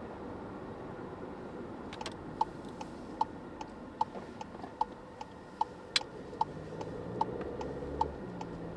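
Car's turn-signal indicator ticking in a regular tick-tock, about two and a half clicks a second, starting about two seconds in, over steady cabin road noise.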